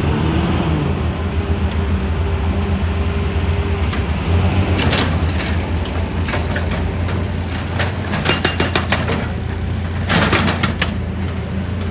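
Excavator's diesel engine running steadily, its pitch bending briefly near the start, with two bursts of rapid knocking and clatter about eight and ten seconds in.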